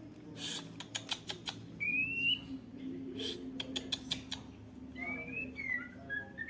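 White-rumped shama in a breeding cage giving short rising whistled notes, between two quick runs of sharp clicks. A steady low hum sits underneath.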